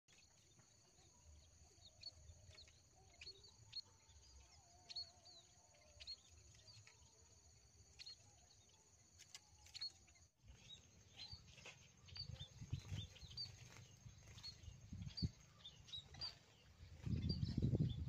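Small birds giving short, high chirps again and again, faint, around a bamboo trap cage, with a thin steady high tone beneath. A low rumble of wind comes in near the end.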